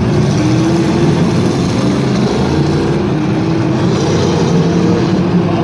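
Demolition derby trucks' engines running and revving together in the arena.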